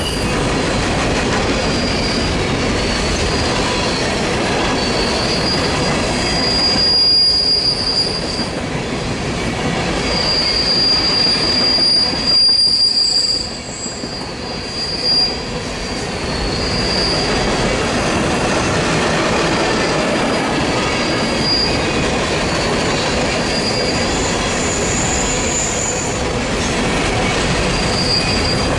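Freight train cars rolling past with a steady rumble and clatter of wheels on rail, while wheel flanges squeal in a high pitch on and off throughout.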